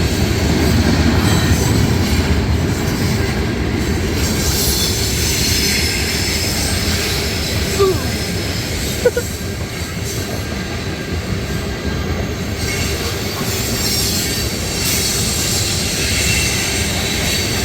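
Loaded ethanol tank cars of a long freight train rolling past at speed: a steady loud rumble and clatter of steel wheels on rail, with two brief wheel squeaks about 8 and 9 seconds in.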